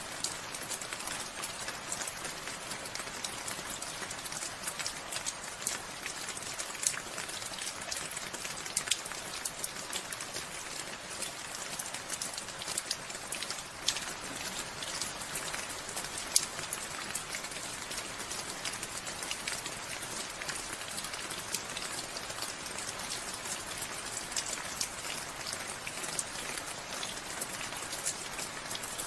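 Steady rain falling, an even hiss with many separate drops ticking sharply on a surface throughout.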